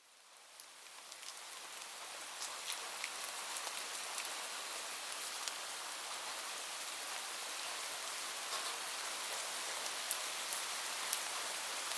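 Steady rain falling, an even hiss with scattered sharp drop ticks, fading in over the first couple of seconds.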